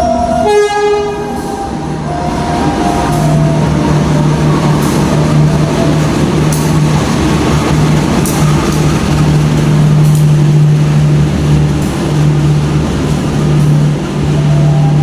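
Diesel-hauled passenger train at the platform: the locomotive's engine runs with a steady low hum over a broad rumble of the train, starting about two seconds in. A brief pitched tone sounds just before that.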